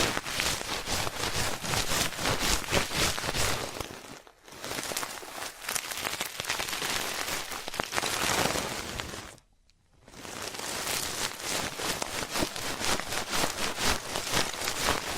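Ear-cleaning ASMR: an ear pick scratching and rubbing in the ear of a binaural microphone, a dense crackling made of many rapid small clicks. It pauses briefly a little after four seconds and falls quiet for about half a second near ten seconds.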